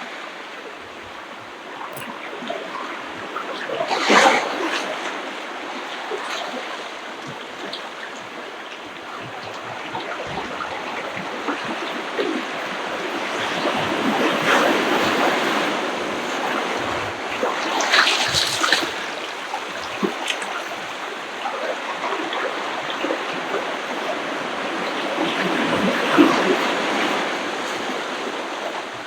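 Small ocean waves washing onto a beach, swelling and easing, with sharper splashes of breaking water about four seconds in, around eighteen seconds in, and near the end.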